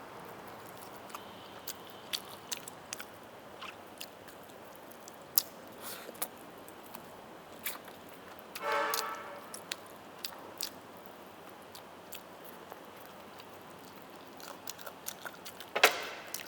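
Close-miked eating of roast chicken: chewing with scattered wet mouth clicks and small crunches. There is a brief hum-like vocal sound about nine seconds in and another near the end.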